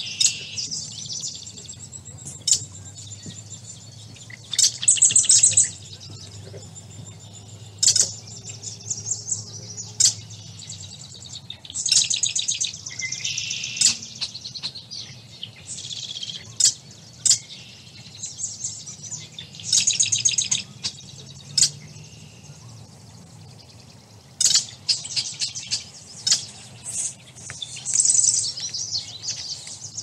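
Marsh songbirds singing: high, rapid trilled songs and chirps, one after another, with short gaps between them.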